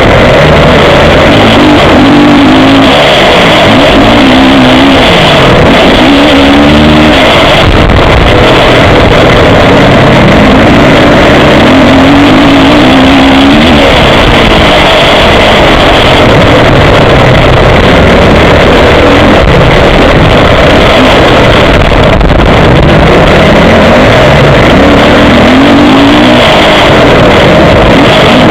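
Motocross bike engine heard from an action camera mounted on the bike, revving up and down over and over as the rider accelerates, shifts and backs off. It is very loud and steady in level, with a dense rushing noise under the engine note.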